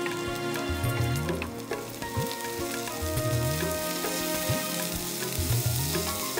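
Chopped onion, red bell pepper and garlic sizzling in a frying pan as they are stirred with a wooden spatula; the sizzle grows louder about two seconds in. Background music with a repeating bass figure plays under it.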